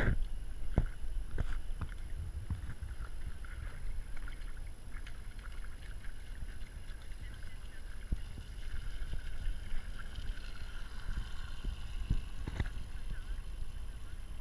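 Radio-controlled model boat running on the water: a faint, wavering motor whine that grows stronger about eight seconds in, over a low wind rumble, with a few sharp knocks.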